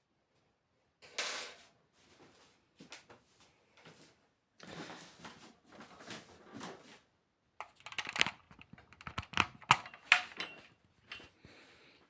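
Small metal parts and hand tools being handled: scattered clicks, taps and scrapes, with the sharpest clicks coming in a cluster past the middle.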